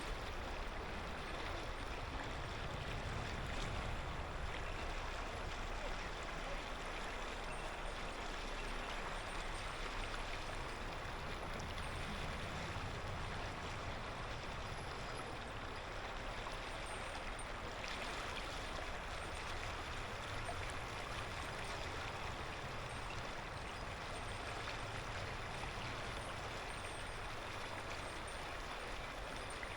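Clear mountain river flowing steadily over stones, an even babbling rush of water.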